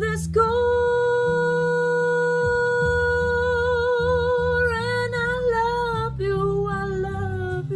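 A woman singing a long held note that slides into vibrato after about four seconds, then moves down to a lower held note, over a soft instrumental accompaniment.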